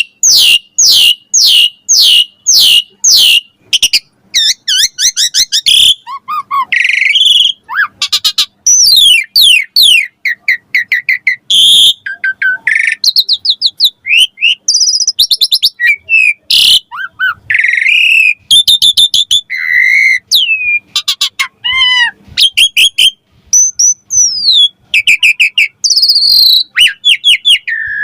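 Asian pied starling (jalak suren) in loud, vigorous full song. It opens with a run of repeated falling whistled notes, about two a second, then breaks into a varied stream of whistles, rising and falling glides, chatter and sharp clicking notes.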